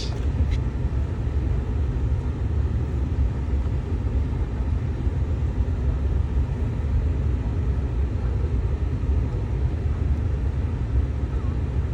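Steady low rumble of a car's engine and road noise heard from inside the cabin as the car drives.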